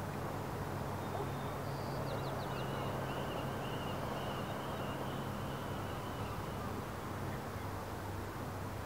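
Faint, distant bird calls: a few short high chirps about a second in, then a thin wavering call lasting several seconds. Under them runs a steady wash of outdoor noise and a low hum.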